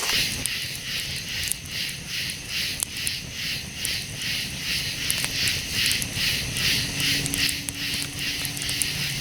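Night insects chirping in a steady pulsing chorus, about three pulses a second, with scattered sharp clicks.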